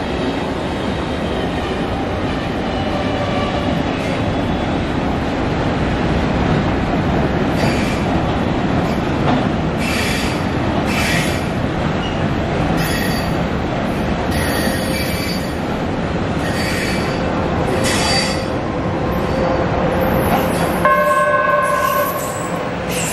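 Freight train wagons rolling past on the rails, a steady rumble with repeated brief high-pitched wheel squeals. Near the end a steady, multi-toned sound begins.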